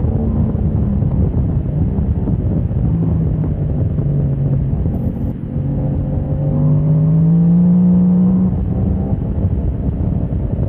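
Motorcycle engine running at speed under heavy wind noise. Its note dips briefly about five seconds in, then rises steadily for about two seconds as the bike accelerates, and drops off again.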